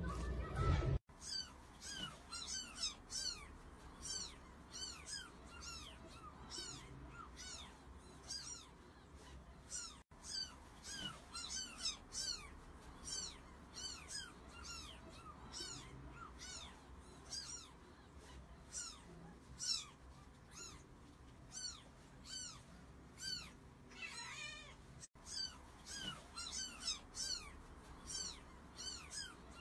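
Kittens mewing over and over: short, high-pitched cries that drop in pitch, several each second.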